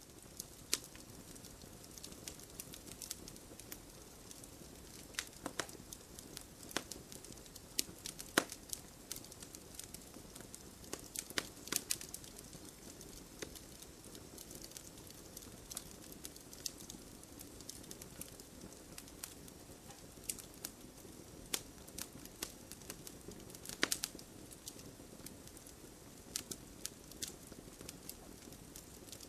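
Campfire burning: wood crackling and popping in irregular sharp snaps over a steady soft hiss of the flames.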